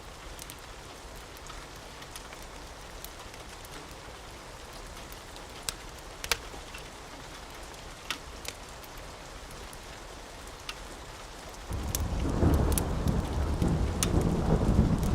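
Steady rain with scattered sharp clicks. About twelve seconds in, a loud, rolling rumble of thunder starts and keeps going.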